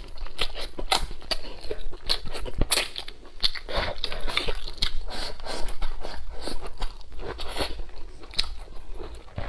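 A person biting into and chewing a mouthful of braised pork close to a clip-on microphone: a dense run of short clicking mouth and chewing sounds, several a second.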